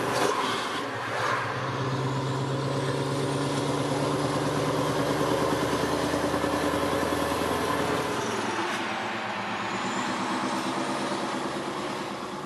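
Scania R500 V8 truck engine running steadily under way, its note dropping a little in pitch about eight seconds in, with a short burst of noise near the start.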